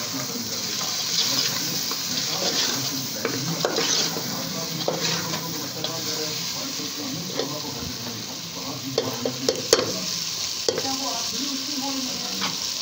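Chicken sizzling as it fries in oil and ground spices in a large aluminium pot, while a long steel ladle stirs it and scrapes against the pot with sharp metal clinks, the loudest a little before ten seconds in.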